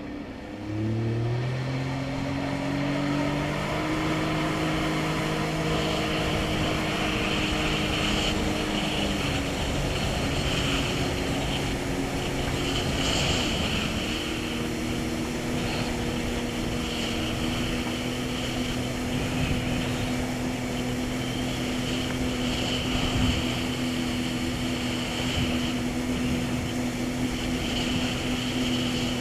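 Jet ski engine throttling up about a second in, then running steadily at speed, its pitch shifting a couple of times, over a steady rushing noise.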